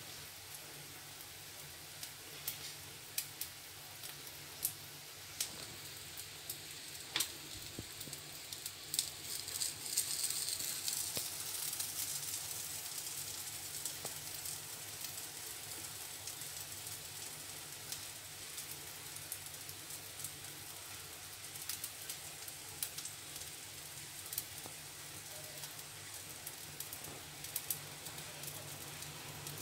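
Corned beef and corn omelette patties frying in oil in a nonstick pan: a steady sizzle with scattered crackling pops, a little louder about ten seconds in.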